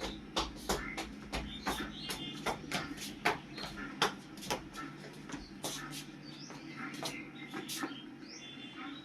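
Small birds chirping over an irregular run of sharp clicks or pops, several a second.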